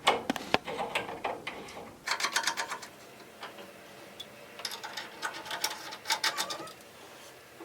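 Caps being screwed by hand back onto a tankless water heater's flush-valve ports: a few sharp clicks, then two runs of rapid ticking as the threads turn.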